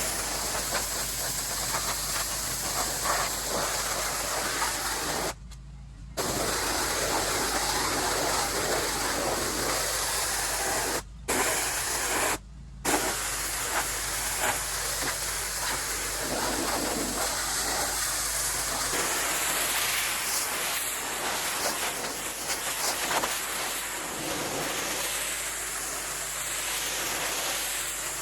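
Pressure washer spraying wood, a steady hiss that stops for a moment three times as the trigger is let go: once about five seconds in, and twice around eleven to thirteen seconds.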